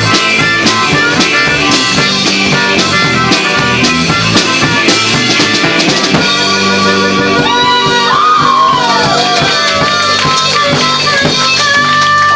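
Live rockabilly band playing on drum kit and guitar with a steady beat. The drums stop about halfway through, and the band holds a closing chord with bending notes over it.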